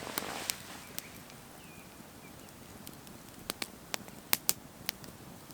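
Campfire crackling: scattered sharp pops and snaps over a faint hiss, coming closer together near the end.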